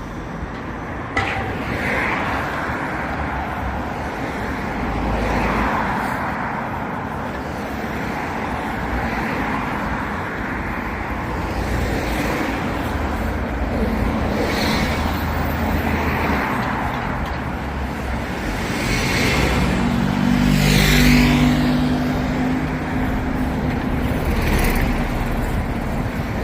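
Vehicle and engine noise on a road, with passing swells and a sharp click about a second in. A nearby engine's low hum grows loudest near the end.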